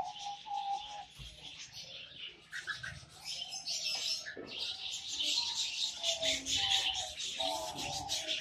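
Pet birds chirping and chattering: a continuous rapid high twitter mixed with short, steady whistled notes lower down.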